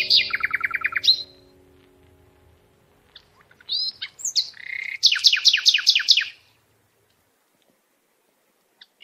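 A songbird sings two phrases, each ending in a fast descending trill of repeated notes: one at the start, another about four seconds in. The tail of a music track fades out underneath during the first second or so.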